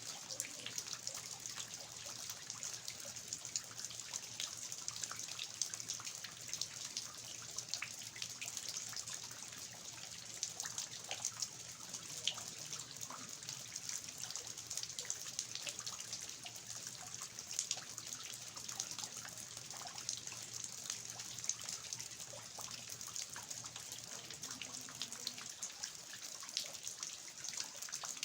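Steady rain falling on a garden, with water dripping from the roof eaves: an even hiss of rain with many small, irregular drip ticks.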